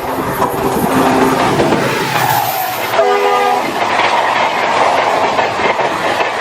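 A train passing close by, with a steady rumble and wheel clatter throughout. Its horn sounds faintly in the first second or so, then in a loud blast about three seconds in that lasts about half a second.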